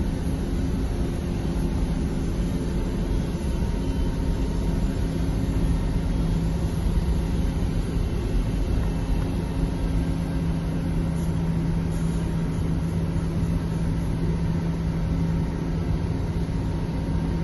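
Steady drone of a jet airliner during pushback, a continuous rumble with a low hum that grows stronger about five seconds in.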